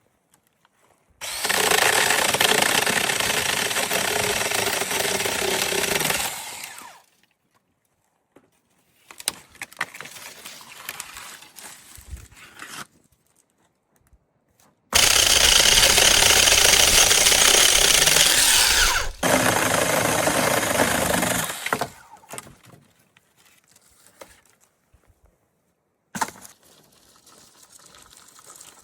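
A power tool running in three bursts of a few seconds each, starting and stopping abruptly, with quieter handling noises in between.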